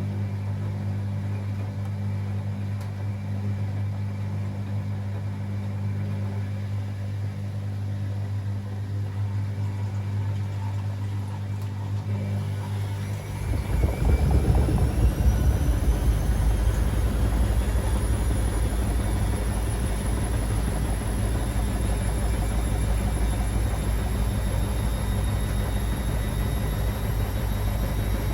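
Beko WA 1050 washing machine: a steady low hum, then about 13 seconds in the motor starts turning the drum faster. A whine climbs in pitch for a few seconds and settles at a steady high pitch over a low rumble, as the machine goes into its spin.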